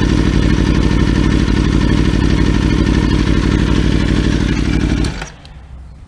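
Aprilia Tuono V4 motorcycle's V4 engine running at a steady, unchanging speed with a loud, dense exhaust pulse. The sound cuts off about five seconds in.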